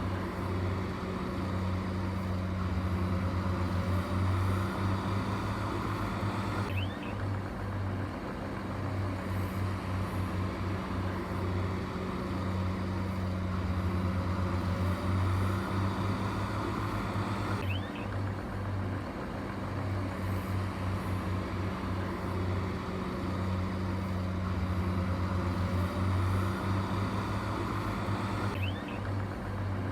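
Heavy diesel engine of construction machinery running steadily with a low hum. The same stretch of sound repeats about every eleven seconds, with an abrupt join each time, like a loop.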